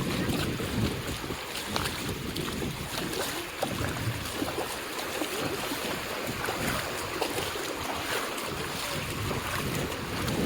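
Wind buffeting the microphone in uneven gusts over the steady wash of ocean surf on a beach.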